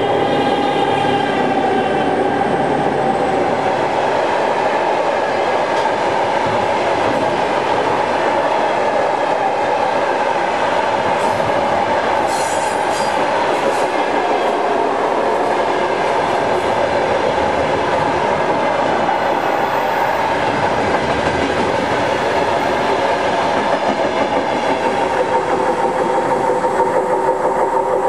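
Long freight train of wagons rolling past at speed: a steady rumble and clatter of wheels over the rail joints, with the 2M62M diesel locomotive's engine note fading away in the first few seconds. A brief high-pitched wheel squeal about twelve seconds in.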